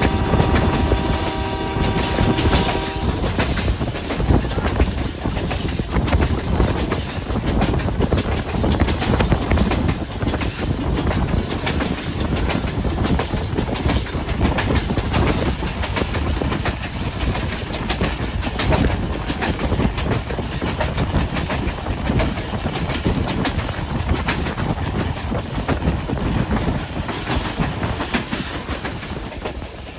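Pakistan Railways Hazara Express passenger train running at speed, its wheels and rails giving a steady rumble and clatter. The locomotive horn sounds one long, steady blast at the start and stops about three seconds in.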